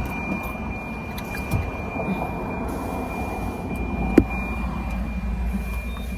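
Car running, heard from inside the cabin: a low steady rumble that grows a little stronger about halfway through, with a single sharp click about four seconds in.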